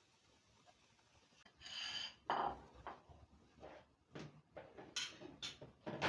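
Household items being handled: a brief ringing clink about one and a half seconds in, then a run of light knocks and clatters, like dishes and kitchenware being set down and moved.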